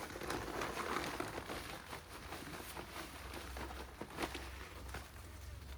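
Rustling and crinkling of a garden bag being handled and moved, with scattered light knocks.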